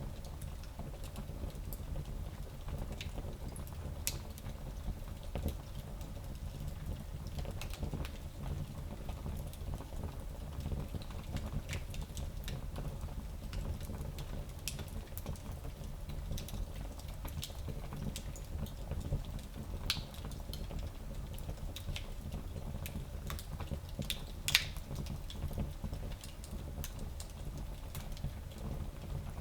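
Fire in a small fireplace crackling: scattered irregular pops and snaps over a steady low rumble, with one louder pop late on.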